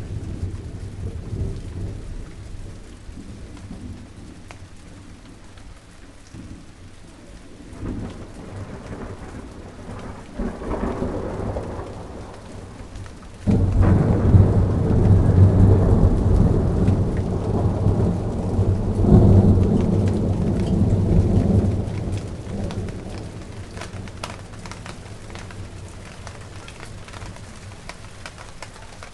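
Steady rain with thunder: faint rumbles early on build to a sudden loud thunderclap about halfway through, which rolls for several seconds, swells once more and fades away, leaving the rain alone.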